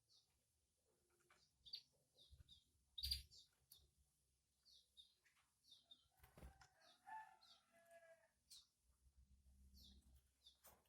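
Canaries at the nest: faint, short, high chirps repeating every half second or so, with wing rustles and a few sharp knocks. A lower, warbling run of cheeps comes in the middle.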